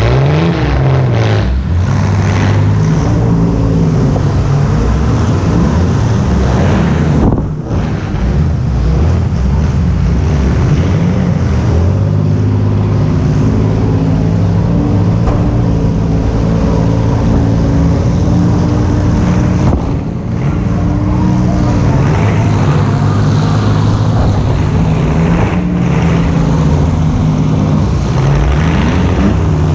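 A vehicle engine running hard and loud, its pitch rising and falling with the throttle, briefly dropping off twice before pulling again.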